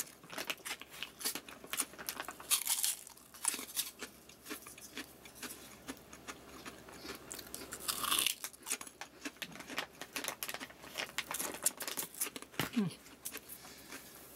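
A person biting into and chewing a large, airy deep-fried shrimp cracker (ebisen), giving a run of crisp crunches. A louder cluster of crunches comes about eight seconds in.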